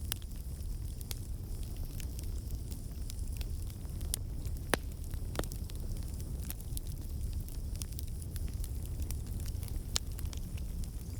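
Campfire burning: a low steady rumble of flames with irregular crackles and pops of burning wood, a few sharper snaps among them.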